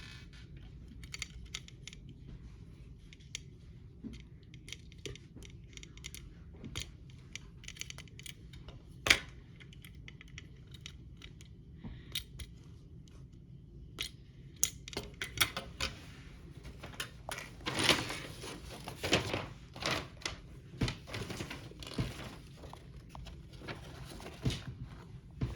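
Small plastic kit parts being handled, tapped and clicked together: scattered sharp clicks and taps, busier and louder in the second half, with some rustling.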